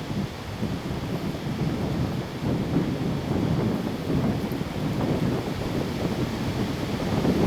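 Strong windstorm gusts buffeting the microphone: a low, rumbling rush of wind that swells and eases, growing louder near the end.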